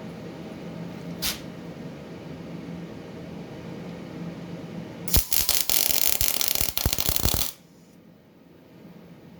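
Sherman 200M MIG welder arc crackling and spitting for about two and a half seconds as a short weld is laid, then cutting off suddenly. A steady low hum runs beneath it, with a single short click a little over a second in.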